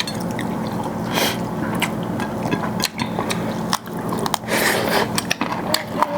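Close-up eating sounds of rice with chicken gravy being chewed, with many quick wet smacks and clicks.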